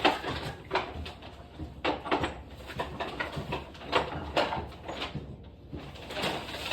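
Irregular knocks, clicks and clatter of objects being handled and set down.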